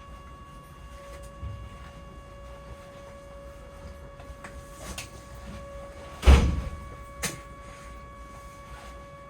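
A train door banging shut about six seconds in, followed by a lighter knock a second later. Underneath is the steady electrical hum of the stopped train.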